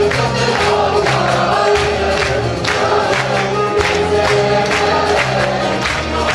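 Turkish folk music choir singing in unison over instrumental accompaniment, with a steady percussion beat.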